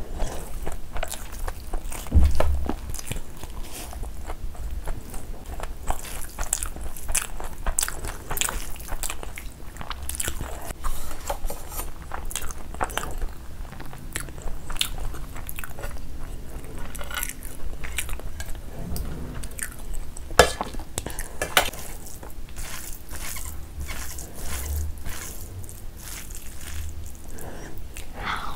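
Close-miked chewing of a mouthful of rice and mutton curry eaten by hand, full of wet mouth clicks and smacks.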